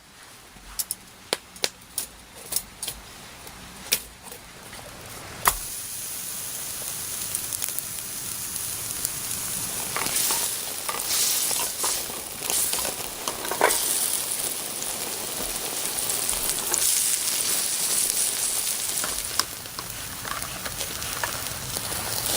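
Sizzling and crackling, like food frying over a fire. Sharp clicks and crackles come first, then about five seconds in a steady sizzling hiss sets in and swells and fades.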